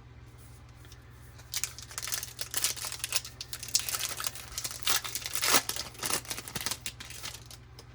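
A baseball card pack's wrapper being torn open and crinkled, a dense crackling that starts about a second and a half in and dies away near the end.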